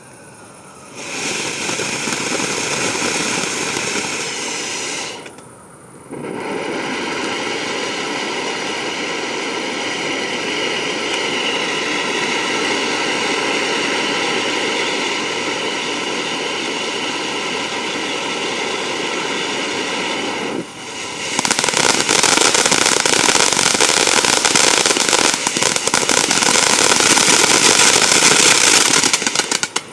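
Ground fountain firework spraying sparks with a steady hiss, starting about a second in and briefly dying down a few seconds later before picking up again. From about two-thirds of the way through it gets louder and crackles densely, then stops just before the end.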